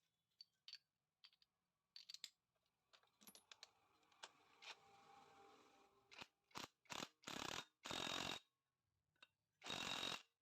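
Engine parts being handled during hand assembly: small metal clicks, a soft rubbing, then several short scraping strokes in the second half, each about half a second long.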